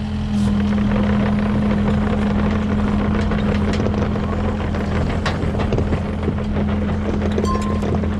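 Excavator's diesel engine running steadily with a constant low hum, with scattered short clicks and knocks over it.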